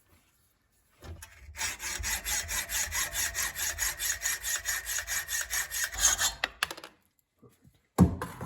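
Rapid back-and-forth rasping strokes of a hand tool working a wooden knob, about five strokes a second for some five seconds. Near the end come two sharp knocks about half a second apart.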